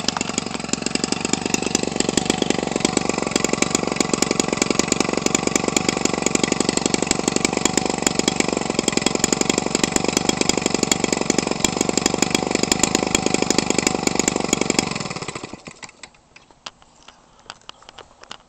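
Homelite 25cc two-stroke engine, converted for a giant-scale RC airplane with a gutted muffler and pipe, running steadily on the bench. About fifteen seconds in it shuts off and dies away, leaving only a few faint ticks.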